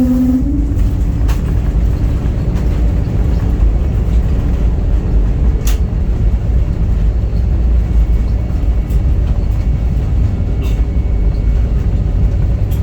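Steady, loud low rumble of airliner cabin noise as the plane lands and rolls on the ground, with a few faint clicks.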